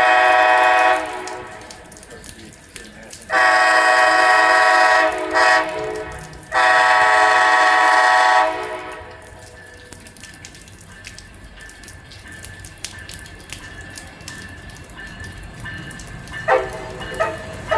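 Amtrak Auto Train locomotive's air horn blowing the grade-crossing signal: the end of one long blast, then a long, a short and a final long blast. After the horn the train rumbles steadily past, with a few brief sharp sounds near the end.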